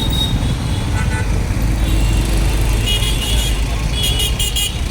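Steady, loud road-traffic rumble of motor vehicles, with several short high-pitched tones in the last two seconds.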